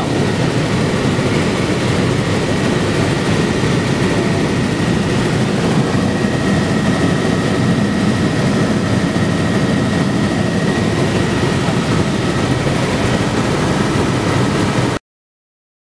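Helicopter in flight: a steady, loud drone of engine and rotor with a thin steady whine over it, cutting off suddenly near the end.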